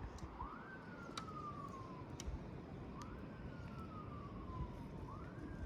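Emergency vehicle siren wailing: each cycle climbs quickly and then slides slowly back down, three times about every two and a half seconds, over a low steady rumble.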